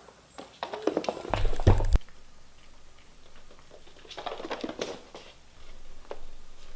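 Kittens' paws pattering and scrabbling on the floor as they play, with a quick run of taps and knocks ending in heavy thumps just before two seconds in, then lighter pattering around four to five seconds.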